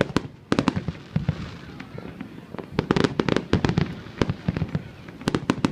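Aerial fireworks going off: rapid clusters of sharp cracks over deeper booms, with flurries about half a second in, around the middle and near the end.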